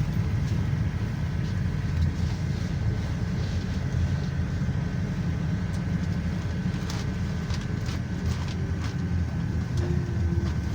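Inside a GAZelle Next minibus on the move: a steady low engine and road rumble with a faint steady whine, and a few short rattles and clicks about seven seconds in.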